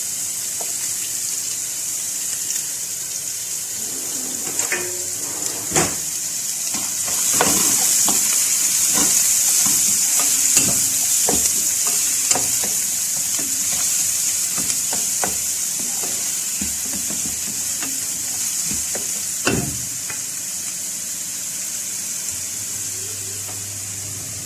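Food sizzling in hot oil in a pan, louder from about seven seconds in, with frequent clicks and knocks of a utensil stirring against the pan.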